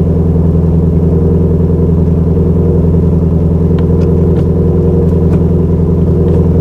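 Ford Mustang Shelby GT350's 5.2-litre Voodoo flat-plane-crank V8 idling steadily just after start-up, at a constant pitch with no revs.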